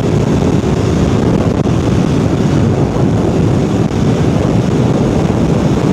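Aprilia Tuono V4R's V4 engine running steadily under way, heard through a microphone inside the rider's helmet with heavy wind noise.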